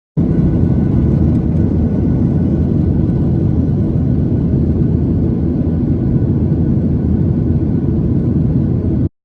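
Airliner noise: a steady, loud low rumble of jet engines and rushing air, cut in and cut off abruptly.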